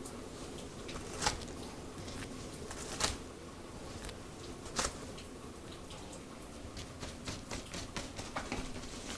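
Hands massaging hair and scalp close to the microphone: scattered soft crackles and clicks, three louder ones in the first five seconds and a quicker run of small ones near the end, over a steady hiss.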